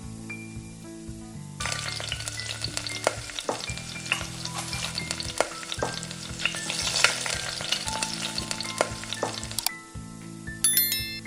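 Food sizzling as it fries in hot oil in a pan, with small scrapes and clicks of a utensil stirring it. The sizzle starts about a second and a half in and stops near the end.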